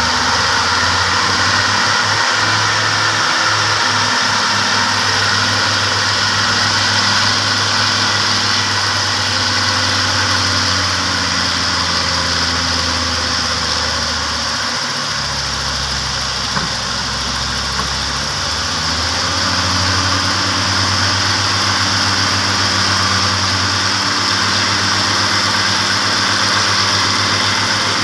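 Heavy diesel engine of a logging truck running at low revs, its pitch shifting a few times, with a steady hiss above it.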